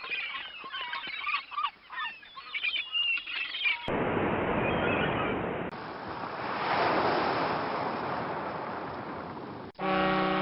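A flock of waterbirds calling with many short honking, rising cries. After a cut, a steady rushing noise like surf or wind swells and fades, and near the end a steady low pitched tone sounds for about a second and a half.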